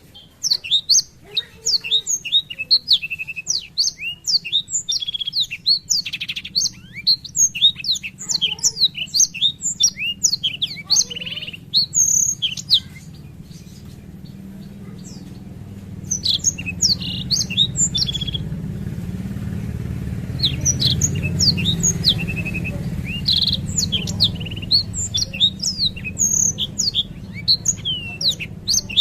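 Blackthroat (black-throated canary) singing a long, fast rolling song of rapid high chirps and whistles. It breaks off for a few seconds about halfway, then resumes, over a low steady hum.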